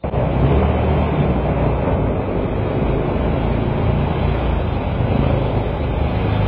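Dirt bike engine running loud and steady as the bike is ridden in a wheelie.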